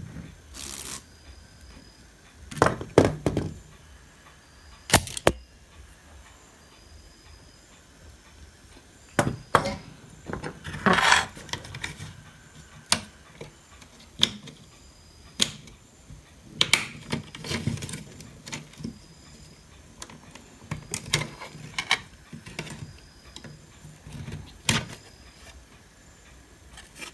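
Hand tools clicking and knocking against the metal parts of a home theater unit in a series of irregular sharp taps, with a longer scrape about eleven seconds in. The work is on a rust-seized part that will not come loose.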